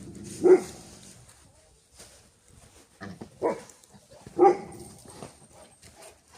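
A dog barking in single, separate barks: one about half a second in, then three more between about three and four and a half seconds.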